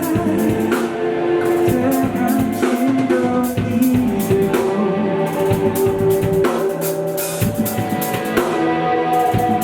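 Live rock band playing an instrumental passage: drum kit keeping a steady beat under sustained electric guitar and bass.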